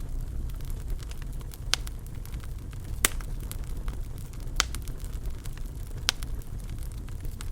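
Wood fire crackling in a fireplace: a low steady rumble of the flames with sharp pops of burning wood about every second and a half.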